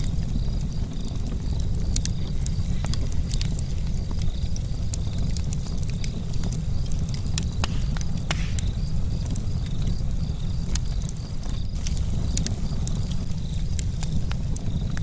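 Charcoal campfire crackling, with scattered sharp pops and ticks at irregular times over a steady low rumble. A faint, evenly pulsing insect chirp runs underneath.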